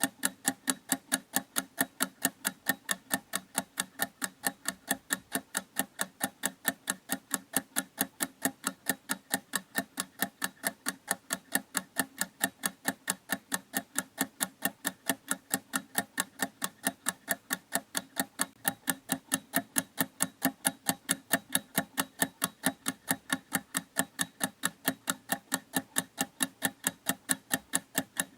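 Clock ticking with quick, even, unbroken ticks.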